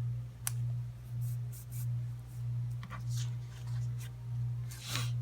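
Paper rustling with light scratches and clicks as planner stickers are peeled and pressed onto a planner page, the loudest rustle near the end. Under it runs a low hum that swells and fades about once a second.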